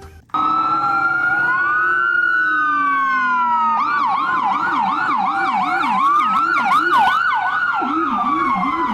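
Ambulance siren wailing in slow rising and falling sweeps; a few seconds in, a fast yelping siren joins, overlapping the wail.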